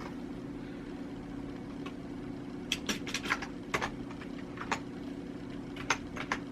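A steady low machine hum, with a scattering of short, light clicks through the middle.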